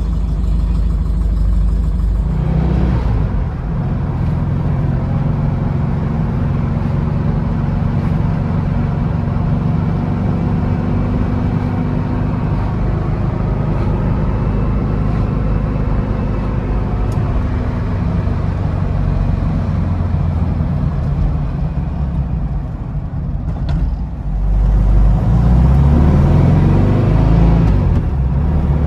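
1956 Porsche 356A's engine running steadily while warming up after a cold start, growing louder and deeper about 24 seconds in.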